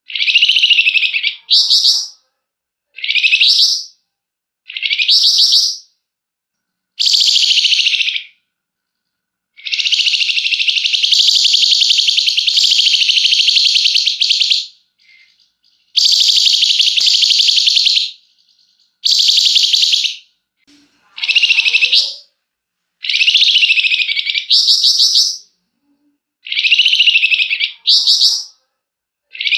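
A flamboyan songbird singing loudly in repeated rapid chattering phrases of about a second each, with brief silent gaps, and one long unbroken rattling trill of about five seconds near the middle.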